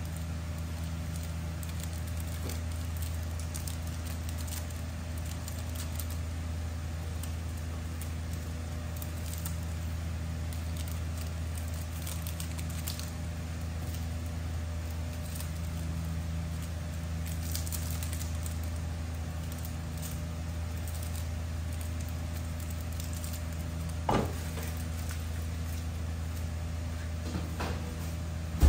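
Stir-fried noodles and vegetables sizzling softly in a wok over a gas burner, with faint scattered crackles over a steady low hum. There are two sharp knocks, one about 24 seconds in and a louder one at the very end.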